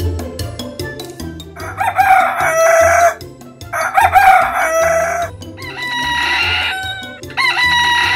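Rooster crowing four times, the first two crows the loudest, over background music with a steady beat.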